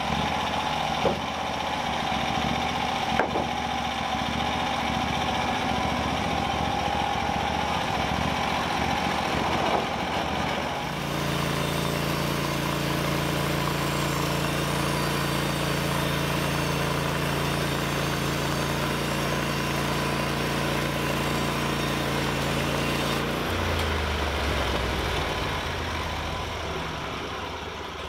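Small gasoline engine of a saw used for milling boards. It runs with a high whine and a few sharp clicks, then at about 11 s it changes to a steady lower running note. It drops to idle about two-thirds of the way in, then fades out.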